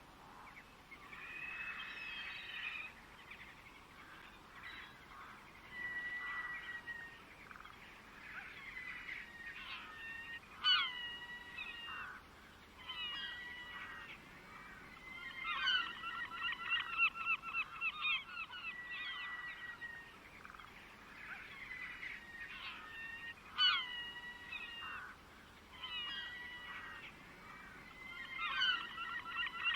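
Birds singing: repeated phrases of whistled notes and sharp sweeping chirps, ending in fast rattling trills of about ten notes a second, returning every several seconds.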